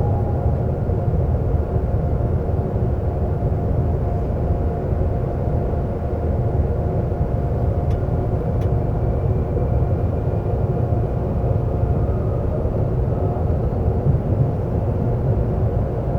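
Seoul subway train running: a steady low rumble with a few steady humming tones over it, and a couple of faint ticks about eight seconds in.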